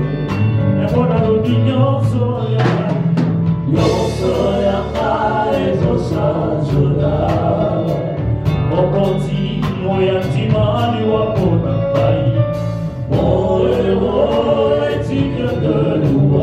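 Live gospel worship music: a choir singing over a band with a drum kit keeping a steady beat and bass underneath.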